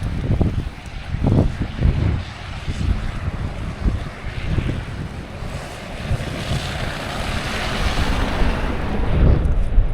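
Blizzard wind buffeting the microphone in uneven low gusts, with a rushing hiss that swells about six seconds in and fades near the end.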